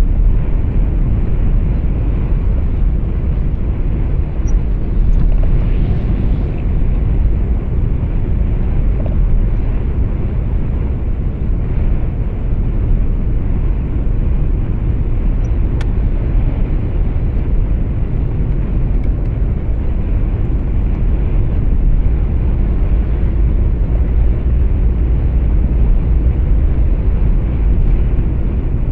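Truck cab interior noise while driving: engine and road noise as a steady low rumble that does not change.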